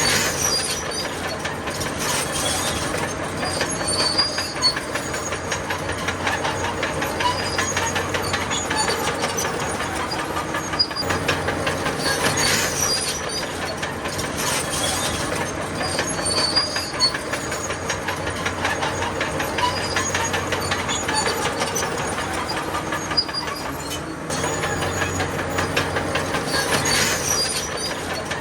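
Crawler bulldozer at work: its diesel engine runs steadily while the steel tracks clank and squeal in short high bursts.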